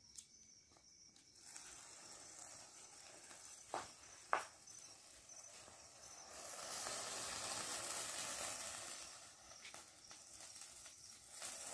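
Faint hissing of a sparkling firework fountain, which swells for a few seconds past the middle. Two sharp pops come about four seconds in.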